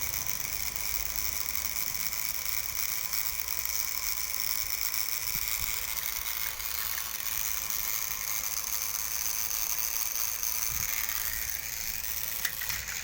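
Battery-powered toy Spencer engine switched on and running, its small electric motor and plastic gears whirring steadily at a high pitch, with a few light clicks near the end.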